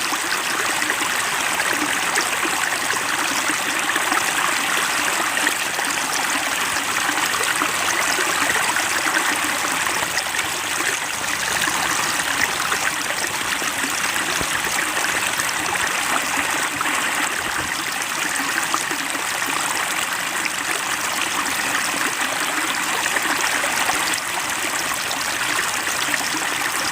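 Water trickling and splashing steadily into a fish pond, an even, unbroken babble.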